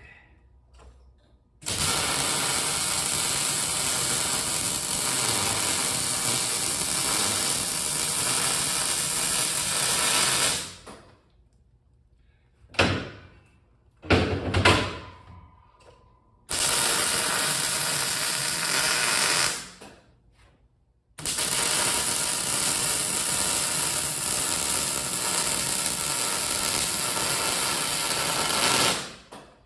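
Wire-feed MIG welder arc crackling steadily while welding steel, in three runs of about nine, three and eight seconds. A couple of short knocks fall in the pauses between the first and second runs.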